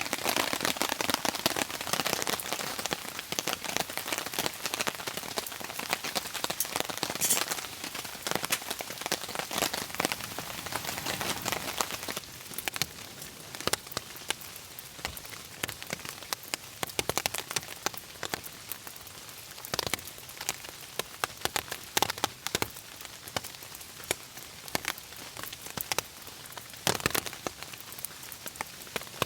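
Rain falling, with many separate drops ticking. It is heavier for the first twelve seconds or so, then thins to scattered drips.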